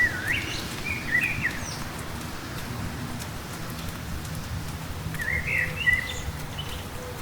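Steady light rain with a songbird singing two short warbled phrases, one right at the start and another about five seconds in, over a low rumble.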